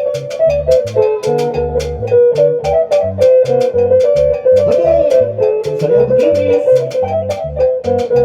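Live band playing an instrumental break: a guitar melody over pulsing bass guitar notes and a steady percussion beat.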